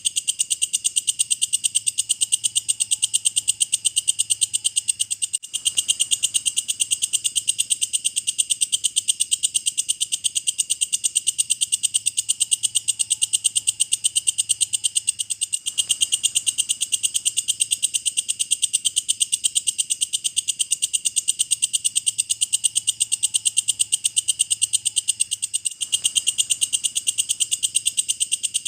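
Walang kecek, a katydid, calling: a steady run of rapid, evenly spaced high chirps, with a brief break about every ten seconds.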